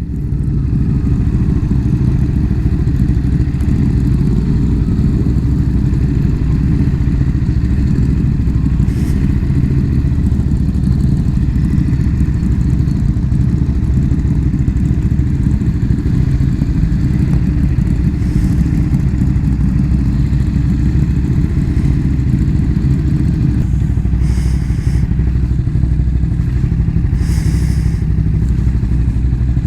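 Motorcycle engine running steadily at low revs, with no revving or gear changes. Two brief, higher hiss-like noises come near the end.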